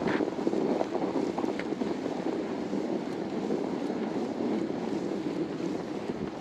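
Steady rushing noise of blizzard wind buffeting the microphone while a fat bike rolls over snow, with a few faint clicks.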